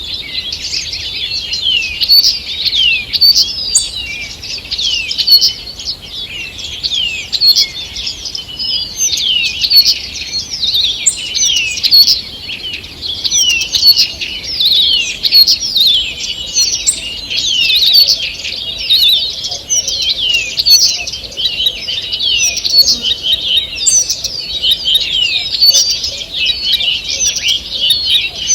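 Morning chorus of many songbirds singing at once in a forest: dense, overlapping chirps, trills and quick whistles with no break.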